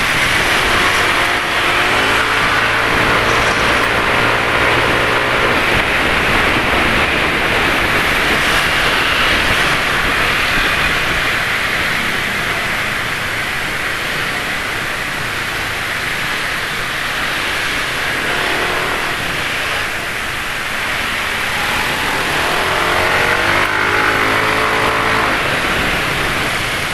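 Steady wind and road noise from riding a scooter in traffic, with the engines of other motorbikes passing close by, one from about two to six seconds in and another near the end, each rising and falling in pitch.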